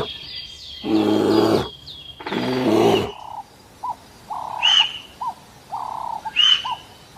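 Two loud, rough animal roars in the first three seconds, over continuous high bird chirping. After that, a bird call repeats about every two seconds: a short mid-pitched note and a quick blip, then a higher arched note.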